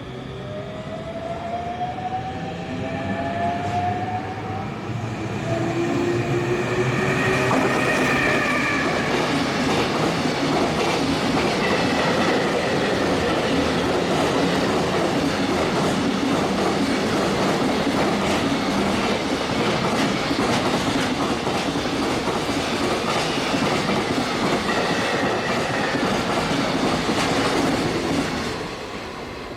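Freight train passing at high speed behind an electric locomotive. A rising motor whine comes first, then about twenty seconds of steady rumbling and wheel clatter as the wagons go by, fading near the end.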